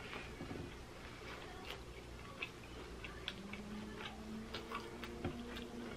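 Close-up chewing of a fried chicken sandwich: small, irregular mouth clicks scattered through. A low steady hum comes in about halfway.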